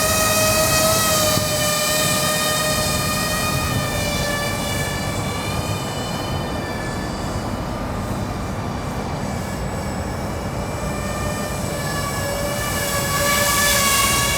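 Electric motors and propellers of a twin-rotor RC model aircraft whining steadily in flight, the pitch sagging slightly midway and rising again near the end. Wind rumbles on the microphone underneath.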